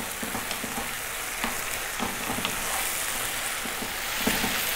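Lamb pieces, onion and ginger-garlic paste sizzling in hot oil in a non-stick frying pan, stirred continuously with a wooden spatula that knocks lightly against the pan now and then.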